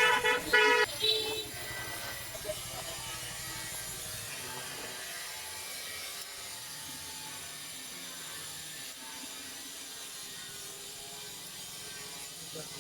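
Mechanical tool work with a ratchet wrench clicking, as the motorcycle's ignition switch is being refitted. A few short, louder whirring sounds come in the first second and a half, then a steady low-level background.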